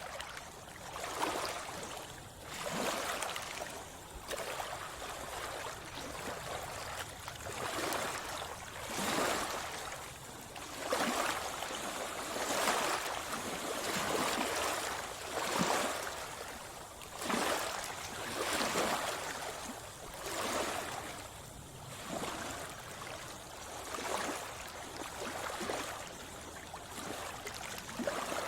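Seawater splashing and gurgling close to the microphone, in repeated surges about every one to two seconds.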